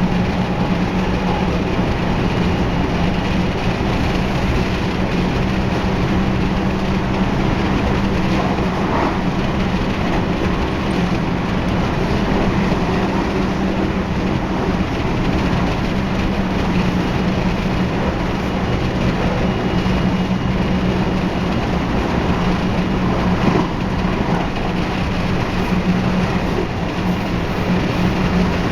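Running noise of a JR West 223 series 0 electric train at steady speed, heard from inside the car: a steady low hum over wheel-on-rail noise, with no rise or fall in pitch and a couple of faint knocks.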